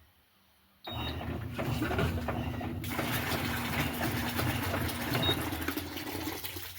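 Electrolux LTD15 top-load washing machine starting up about a second in during a test run, with a steady low hum. About two seconds later rushing water joins it.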